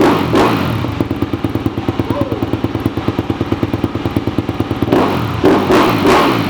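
2018 Honda CRF250R's single-cylinder four-stroke engine running just after a cold start, a fast even putter, with two louder swells in the revs near the end.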